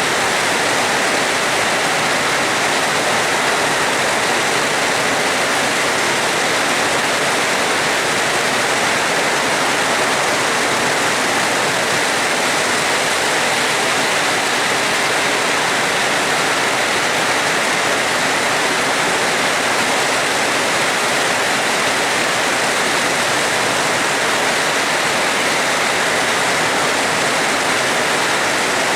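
Steady, heavy rainfall: an even, unbroken hiss of rain, with no thunder.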